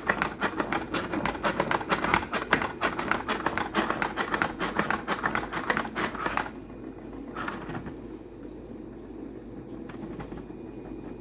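Salad spinner spinning washed lettuce: a rapid run of ratcheting clicks from its spinning mechanism for about six seconds, then the clicking stops and a quieter whir carries on as the basket spins down.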